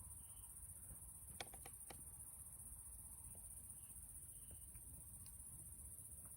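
Faint, steady high-pitched chorus of crickets, with a few sharp clicks about a second and a half in.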